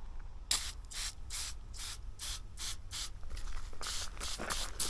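Hand spray bottle being pumped: quick, short hissing spurts, about three a second, starting about half a second in.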